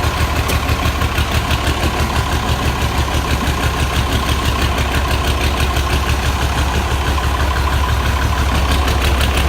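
Diesel tractor engine idling steadily with an even, rapid chuff just after a hard cold start.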